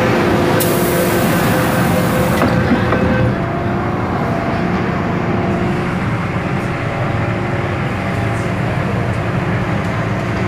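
MTR M-Train electric multiple unit running, heard from inside the car: a steady rumble of wheels on rail with faint motor and gear tones. A high hiss sounds from about half a second in until about two and a half seconds in, and the train is a little quieter after about three seconds.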